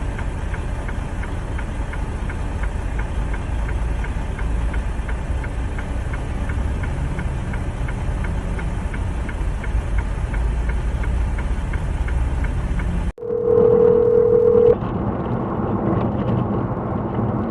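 Steady low road and engine rumble of a moving car, with faint regular ticking. After a sudden cut, a louder car rumble begins, with a steady one-note tone lasting about a second and a half.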